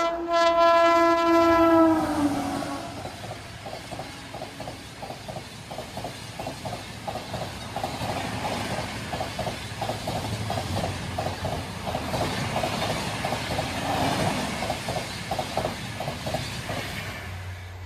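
Express train horn blaring as the locomotive approaches; its chord drops in pitch about two seconds in as it passes. It is followed by the coaches rushing by at high speed, with a fast, steady clickety-clack of wheels over rail joints that fades away near the end as the train clears.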